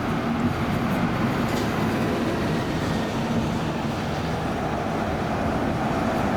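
Buses running close by: a steady, fairly loud engine rumble with a low hum, and a faint falling whine near the end as one moves off.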